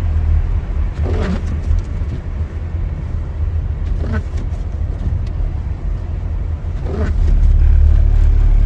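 Car driving on a snowy highway, heard from inside the cabin: a steady low rumble of tyres and engine that grows louder about seven seconds in. A short sweeping sound recurs about every three seconds.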